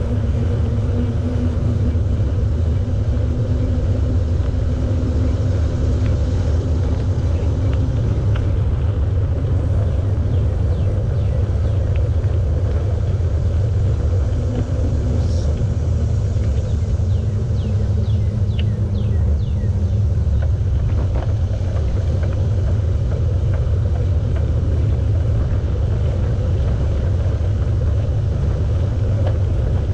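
Wind rumbling steadily on the microphone of a camera riding along on a moving bicycle, with a faint humming tone that comes and goes twice.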